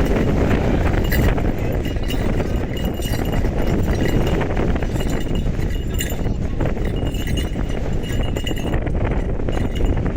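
Strong mountain-summit wind buffeting the microphone in a steady low rumble. Scattered light clicks and clinks run over it.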